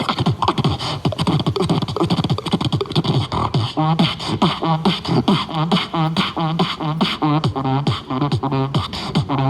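Human beatboxing: fast, rhythmic mouth-made bass kicks and percussion, joined about four seconds in by a hummed bass tone and wavering vocal pitches layered over the beat.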